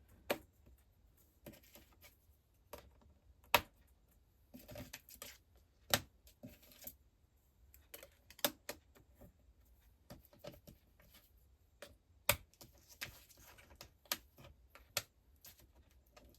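Thin metal cutting dies being handled and laid onto a magnetic storage sheet: scattered light clicks and taps, with some soft rustling in between.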